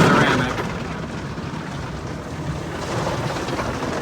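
Car wash tunnel spray arch applying the ceramic coating onto the car, heard from inside the cabin as a steady hiss of spray, a little louder in the last second.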